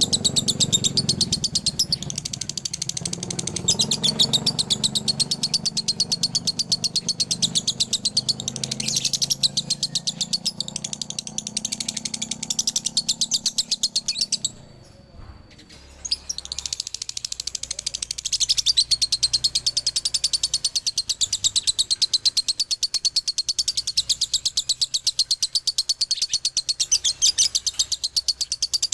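Male lovebird singing a long, fast, unbroken chattering song, the 'ngekek' trill prized by lovebird keepers. There is a short break about halfway through.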